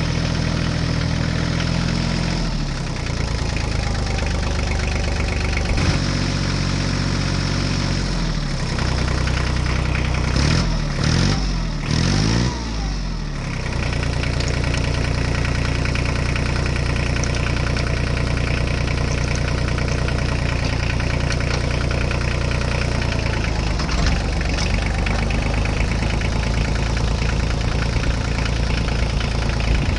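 Tractor engine running steadily, revved up and down several times about ten to thirteen seconds in.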